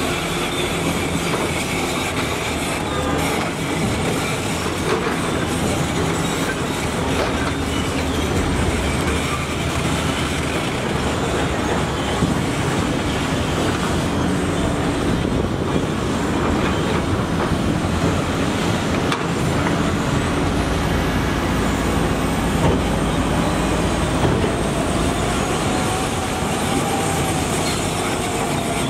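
Heavy diesel construction machinery running steadily, with a constant metallic clatter and a few sharp knocks. A faint squeal slides up and down near the end.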